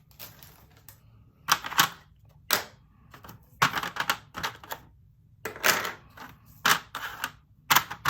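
Irregular sharp clicks and rattles of small plastic bead storage containers and diamond painting drills being handled, with some clicks in quick pairs or short clusters.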